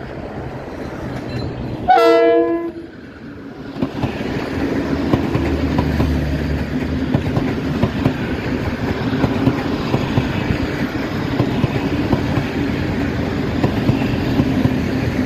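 A short, loud blast of a train horn about two seconds in, then a diesel-hauled passenger train passing close by: a steady rumble of coaches with wheels clacking over the rail joints.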